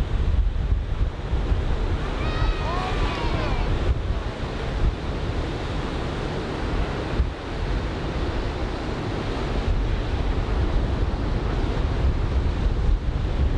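Surf breaking on the shore with wind buffeting the microphone, a steady low rumble. About two seconds in, a brief high wavering call sounds over the surf.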